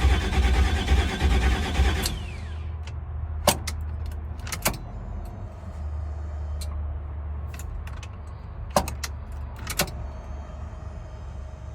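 Army truck engine cranking on the starter without catching, cutting off about two seconds in with a short falling whine. A low steady hum follows, with several sharp clicks. The engine won't fire because no fuel is getting through, which the owner puts down to clogged injectors.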